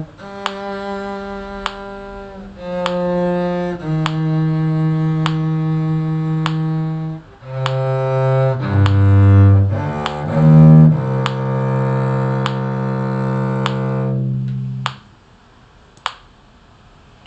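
Slow, long-held notes on a low-pitched bowed string instrument played with a mute (con sordino), with a busier passage about halfway through. A regular click sounds about every second and a quarter. The playing stops near the end, but the clicks go on.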